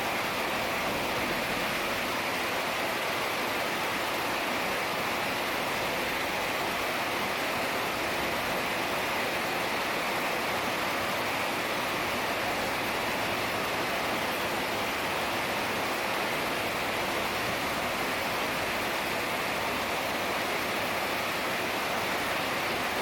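Heavy rain falling steadily, a dense even hiss with no distinct drops or thunder standing out.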